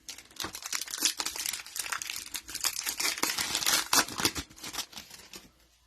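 Plastic foil wrapper of a trading card pack crinkling as it is handled and opened: a dense run of crackles that fades out near the end.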